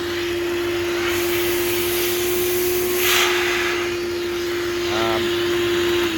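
Hoover Celebrity II Elite canister vacuum running with its power nozzle on carpet: a steady whine from the motor over a rush of air, with a louder hiss of suction swelling about three seconds in.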